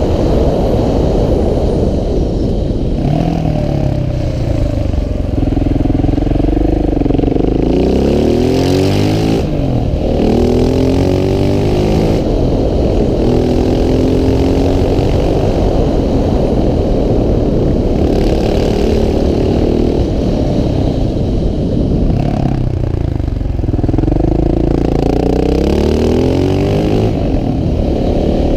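KTM 690 SMC R supermoto's single-cylinder engine being ridden hard, revving up through the gears with the revs dropping back and climbing again several times.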